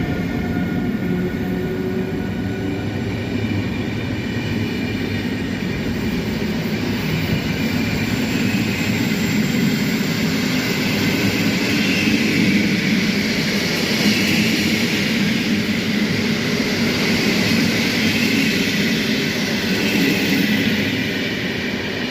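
Passenger train hauled by an EU07A electric locomotive rolling away from the station: a steady rumble and hiss of wheels on rail. The hiss grows brighter and slightly louder about halfway through, and a faint whine fades out in the first couple of seconds.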